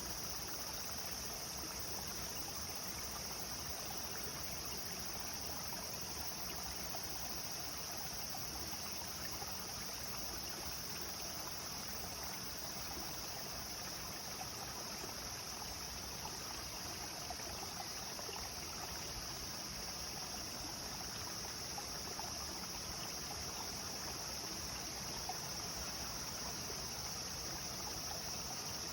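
Clear river water flowing steadily, an even rushing with no change throughout, with a steady high-pitched band of sound above it.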